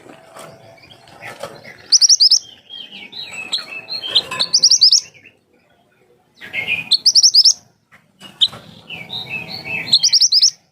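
A small songbird singing in repeated loud bursts of very fast, sharp, high-pitched notes, four phrases a couple of seconds apart, with softer twittering between them.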